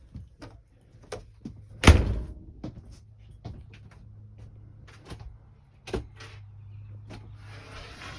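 Interior door of a small travel trailer being handled: a run of light clicks and knocks, with a sharp bang about two seconds in and another near six seconds, over a low steady hum.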